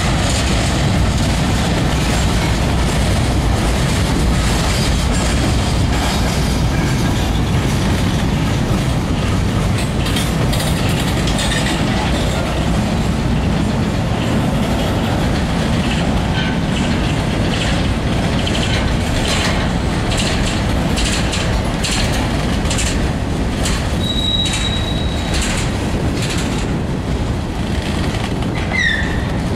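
Mixed freight train of covered hoppers and autorack cars rolling past close by: a steady rumble with wheels clicking rhythmically over rail joints, and a brief high squeal from the wheels late on.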